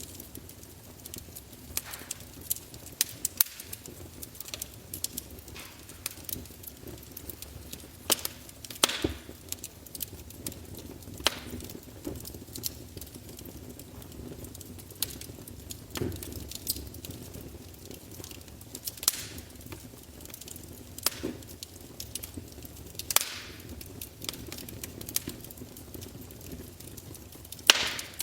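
Wood fire burning in a fireplace, logs crackling with irregular sharp pops over a low steady rumble. A few pops are much louder than the rest, the loudest near the end.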